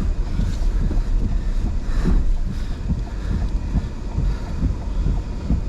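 Strong gusty wind from a nearby tornado buffeting the microphone: a loud, continuous low rumble that swells and eases in irregular gusts.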